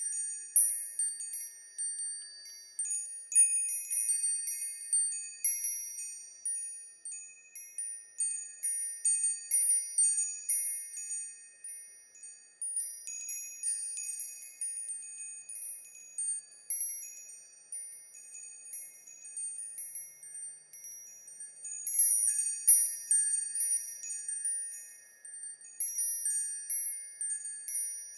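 Wind chimes ringing: many high-pitched metal notes struck at uneven times, overlapping and each dying away.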